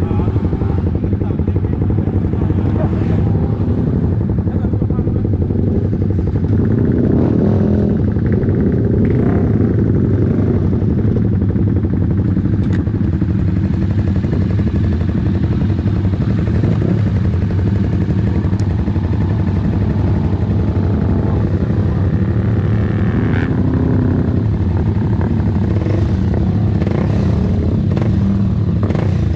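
Yamaha R15 V3 sport bikes' 155 cc single-cylinder engines idling steadily.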